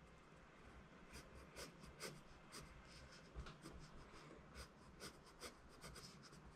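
Faint pencil strokes on paper: a graphite pencil scratching out a run of short lines, a few strokes a second.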